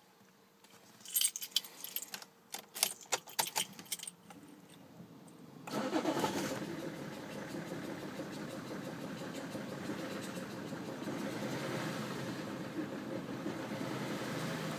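Keys jangling, then the BMW 530d's six-cylinder diesel engine starts about six seconds in and settles into an idle. The owner reports a judder and rough idle, possibly a misfire, with the MAF sensor and fuel already checked as OK.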